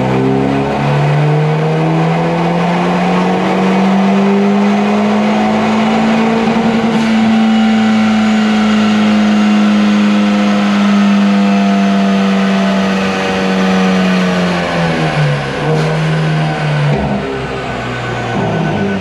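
Hyundai Veloster N 2.0-litre turbocharged four-cylinder (T-GDI) engine with an open intake, pulling hard in fourth gear on a chassis dyno. The revs climb over the first six seconds or so, hold near the top of the range, then fall away near the end.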